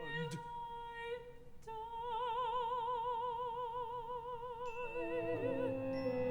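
Opera music: one long held high note with a steady vibrato, briefly broken and taken up again, then several instrumental lines enter near the end.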